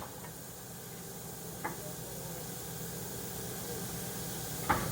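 Steam locomotive standing at the platform with a steady hiss of steam that slowly grows louder. Two sharp metallic knocks come through it, the louder one near the end.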